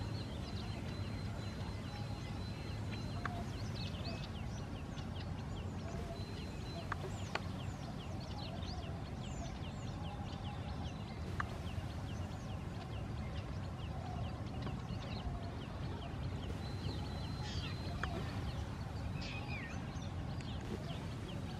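Many birds chirping in a dense chorus of short, high, falling calls, over a steady low rumble. A thin high tone pulses on and off a few times, near the start, about six seconds in and about seventeen seconds in.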